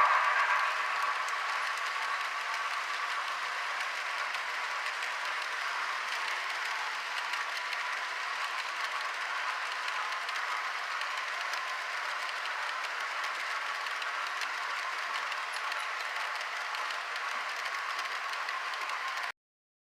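Steam locomotive sound from the HO scale model's Soundtraxx Tsunami sound decoder, played through its small onboard speaker: a louder sound fades in the first second into a steady hiss with no low end, which cuts off suddenly near the end.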